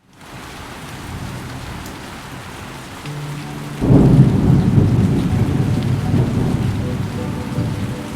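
Steady rain, with a roll of thunder breaking in about four seconds in: a sudden loud low rumble that slowly dies away.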